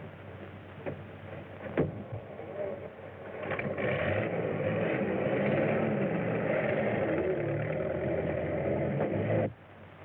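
A couple of sharp knocks, then a car engine starting about three seconds in and running steadily, cutting off abruptly near the end.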